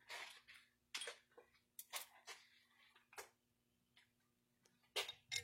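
Small metal hardware being rummaged through and handled: a series of short, sharp clicks and clinks at irregular intervals, with two close together near the end.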